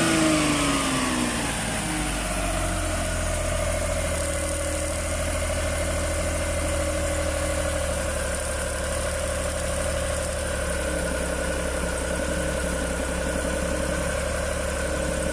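Suzuki F6A three-cylinder multicab engine running, its revs falling over the first two seconds and then settling into a steady idle. An idle that rises and falls on its own, which the mechanic puts down to a torn, holed diaphragm.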